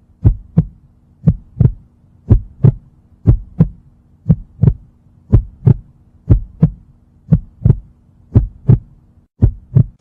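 Heartbeat sound effect: paired lub-dub thumps at a steady pace of about one beat a second, over a faint steady hum.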